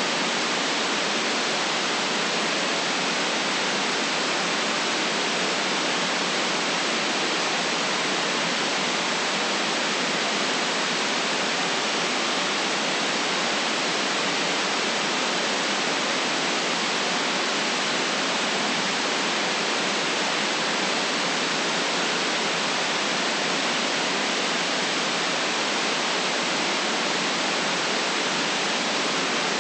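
Steady synthetic white noise: an even, unchanging hiss with no breaks or events.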